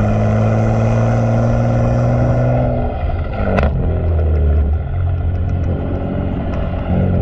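Exhaust of a BMW M3 Competition's twin-turbo inline-six with catless downpipes and a full aftermarket exhaust, droning at steady revs. About three seconds in the revs drop off with a single sharp crack, and the engine carries on as a lower, rougher rumble.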